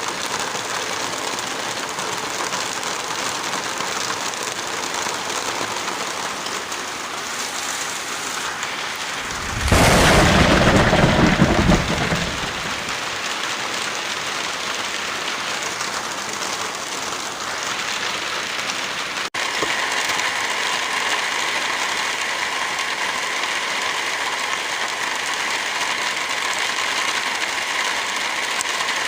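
Steady heavy rain hiss, with a loud rumble of thunder about ten seconds in that lasts around two seconds. About two-thirds of the way through, the sound cuts out for an instant, then the rain carries on slightly louder and brighter.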